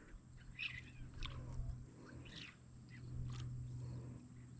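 Faint scattered clicks and scrapes of handling over a low steady hum.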